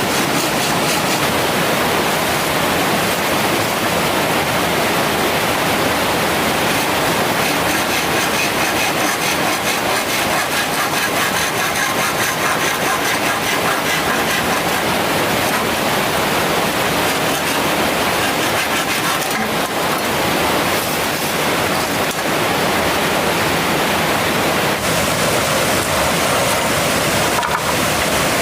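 Steady rushing of a mountain stream's water, a loud even noise with no let-up.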